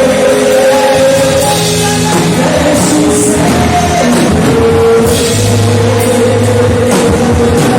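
Loud, steady band music with a drum kit and long held notes, with some singing.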